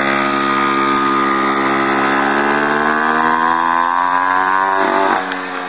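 Mini motorcycle's small engine running under throttle, its pitch rising steadily for about five seconds as the bike picks up speed, then dropping off sharply near the end.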